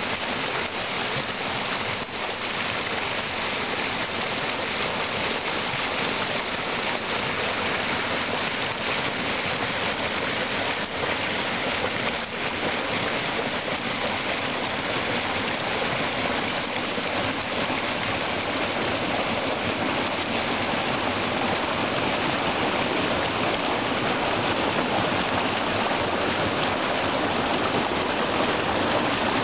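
Spring snowmelt waterfall in a ravine, water pouring and rushing steadily.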